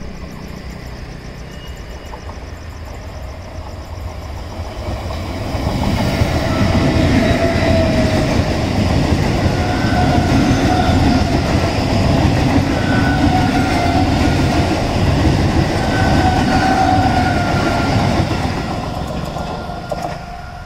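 Central Railway electric multiple unit (EMU) suburban train passing at speed, its wheels rumbling and clattering on the rails. It grows louder as it approaches about five seconds in, holds loud with a steady whine while the coaches go by, and fades as it runs away near the end.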